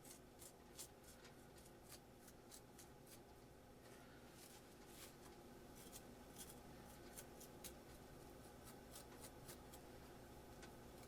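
Very quiet, irregular small clicks and scratches, several a second, over a faint steady low hum.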